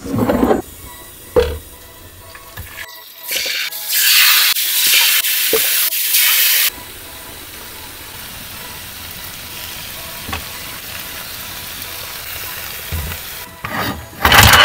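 Marinated chicken pieces frying in a hot grill pan: a loud, high sizzle for a few seconds that cuts off suddenly, then a steadier, quieter sizzle. A short wet squelch of the marinade comes at the start, and a brief loud noise near the end.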